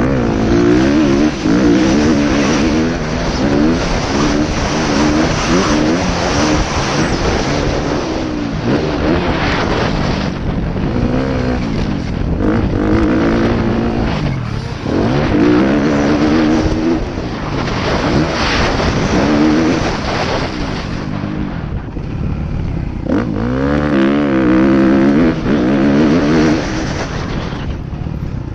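Motocross bike engine running hard on the track, its pitch rising and falling over and over as the throttle is opened and shut, easing off briefly a few times.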